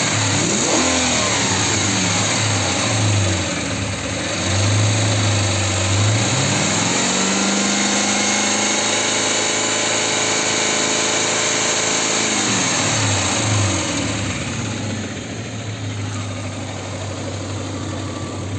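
Audi A8's ABZ 4.2-litre V8, warm, revved a few times, then held at raised revs for about six seconds. It drops back to a steady idle near the end.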